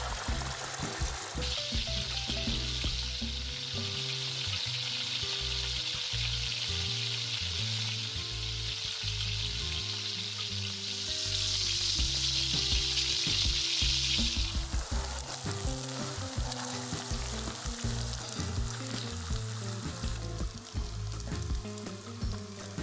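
Hot oil and broth sizzling in a cauldron of rice pilaf. The sizzle starts about a second and a half in, is loudest for a few seconds past the middle, and stops suddenly about two thirds of the way through. Background music plays under it.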